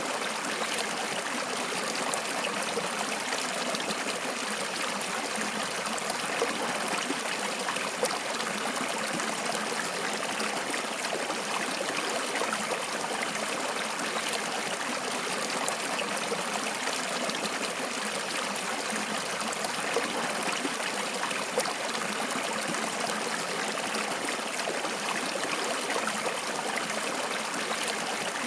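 Water flowing steadily in a stream, a continuous rushing and trickling with small splashes here and there.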